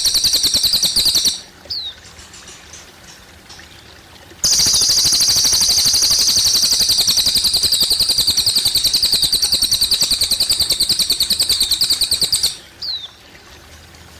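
Cililin bird singing a long, high, very rapid trill. One trill stops about a second in; after a pause with a short falling note, a second trill starts about four seconds in and runs for about eight seconds. Faint trickling water runs underneath.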